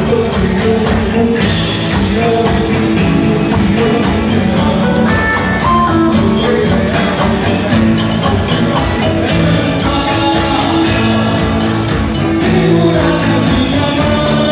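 Band music with singing over a fast, steady percussion beat.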